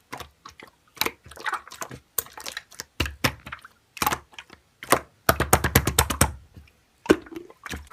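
Slime with gold flakes being squeezed and played with by hand, giving irregular sticky clicks and pops, with a quick run of about ten pops near the middle.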